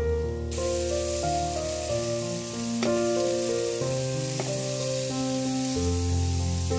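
Elephant yam slices sizzling as they fry on a black iron pan, the sizzle cutting in suddenly about half a second in, with a steel spatula scraping the pan a couple of times. Calm instrumental background music plays over it, louder than the frying.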